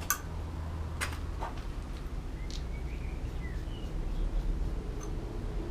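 A few light clicks and taps of parts being handled, over a low steady hum, with a faint bird chirp about halfway through.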